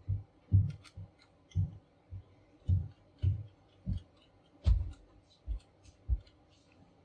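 A run of about a dozen dull, irregularly spaced knocks, roughly two a second, with faint small clicks between them: handling knocks from parts being worked on at a work surface.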